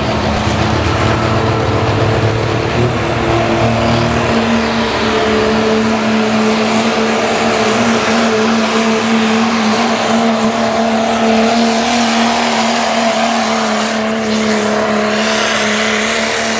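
Dodge Ram diesel pulling truck running flat out under load as it drags a weight-transfer sled, its engine note held at a steady high pitch.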